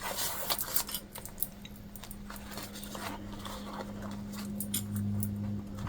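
Small plastic sewing clips being snapped onto the edge of jelly vinyl, with the vinyl handled between them: scattered light clicks and taps.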